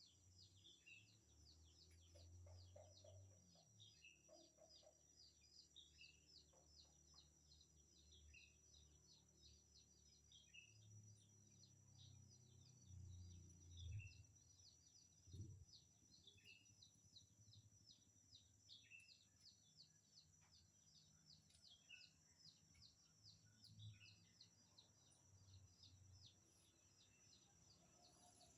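Faint outdoor ambience: a steady high-pitched drone with a fast train of short, high, repeated chirps, and scattered bird calls. Low rumble swells once or twice near the middle.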